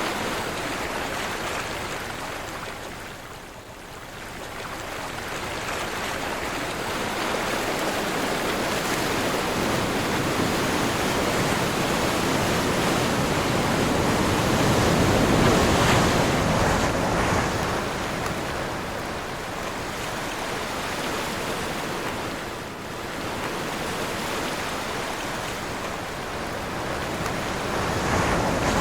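Ocean surf breaking and washing in, in slow swells that rise and fall over several seconds, mixed with wind blowing across the microphone.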